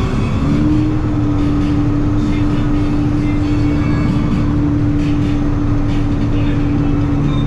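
Dump truck's diesel engine running steadily; its note steps up slightly just after the start and then holds at a constant pitch.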